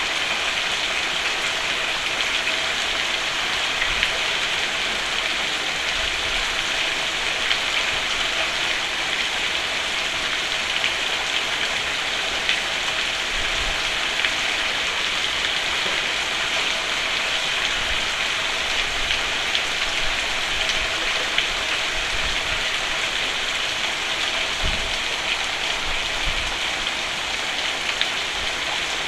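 Steady rain falling on a roof, a dense even hiss with patter of drops and a few faint low thumps.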